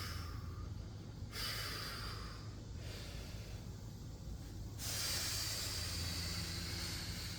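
A man breathing hard through his nose and mouth, three long breaths with pauses between them, as he recovers after a near-maximal deadlift.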